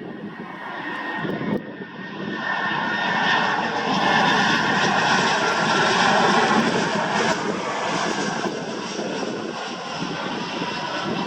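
Airbus A320 jet engines on a landing approach: a steady roar with a whine that builds to its loudest about four to seven seconds in, then eases off a little.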